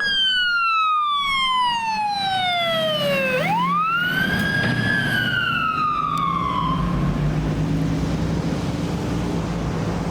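Fire department paramedic squad's siren in a slow wail: it falls for about three seconds, sweeps back up, falls again and stops about seven seconds in. The vehicle's engine and road noise run on underneath and are left alone at the end.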